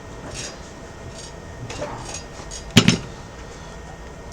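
Small metal tools clinking and clacking on a workbench, a few light ticks and one sharp clack near the three-second mark.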